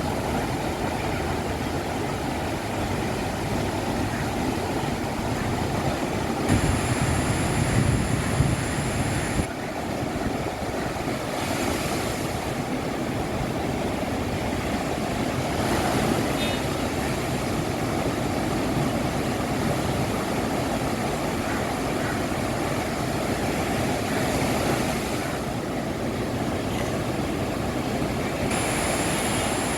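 Sea waves and surf washing steadily, with wind rumbling on the microphone, heaviest from about six to nine seconds in. The sound changes abruptly a few times.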